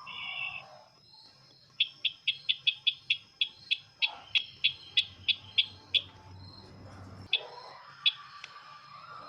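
Bird-lure recording of the sisintar ladang's call: a short trill, then a run of about fifteen sharp, evenly spaced chirps, roughly three a second, over a steady high whine.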